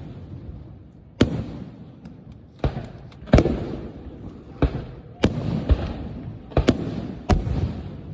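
Fireworks display: aerial shells bursting in about eight sharp booms at uneven intervals, each trailing off in a rolling rumble.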